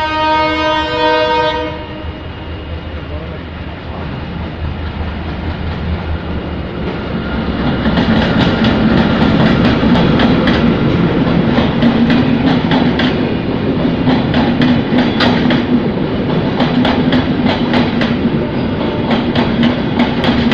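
Locomotive horn sounding for about two seconds, then a passenger train passing at speed, growing louder from about eight seconds in, its wheels clicking rapidly over the rail joints above a steady running hum.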